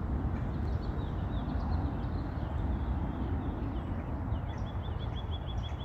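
A small bird chirping high and thin: a few scattered notes, then, about four seconds in, a fast run of even chirps, about five a second. A steady low rumble runs underneath.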